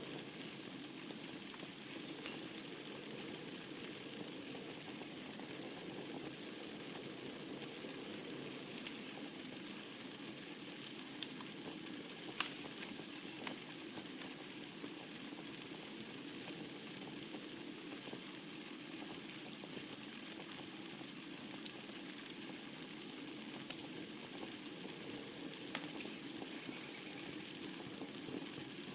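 Wood fire burning in a fireplace: a steady soft hiss of flames with scattered crackles and pops from the burning logs every few seconds, a couple of sharper pops about a third of the way in.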